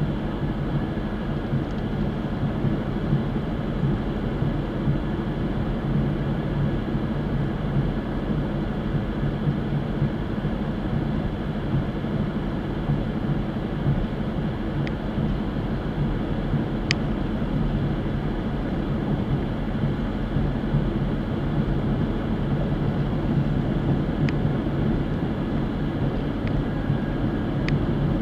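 A car driving at a steady speed, with constant engine and road rumble and a few faint ticks.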